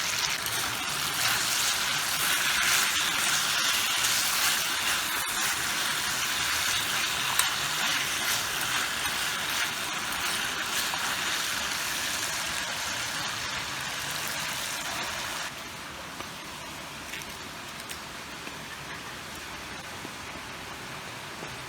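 Steady hiss of running or falling water. It drops suddenly to a lower level about fifteen seconds in.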